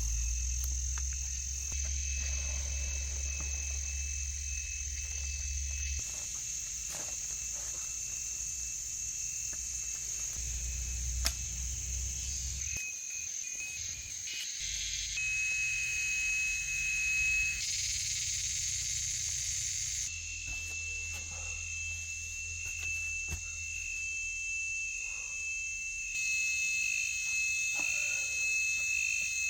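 Rainforest insects calling: a steady high hiss of insects with a thin, shrill, continuous call on top that breaks into a rapid pulse in the later part. Occasional knocks and a low rumble come and go, with one sharp knock about eleven seconds in.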